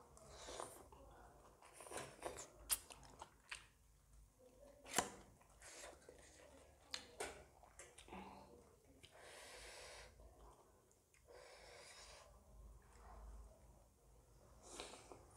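Eating sounds: chewing and slurping of noodles and momo dumplings, with several sharp clicks along the way.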